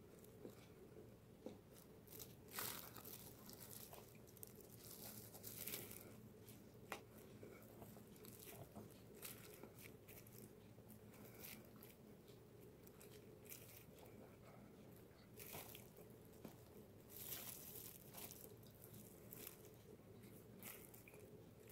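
Near silence with faint eating sounds: a person chewing a soft custard whipped cream bun, with scattered small mouth clicks and rustles over a steady low room hum.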